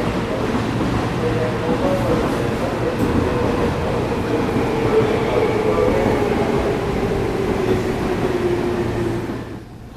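Seibu electric commuter train running along the platform and slowing over loud, steady rumbling wheel noise, its motor whine falling slowly in pitch. The sound drops off suddenly near the end.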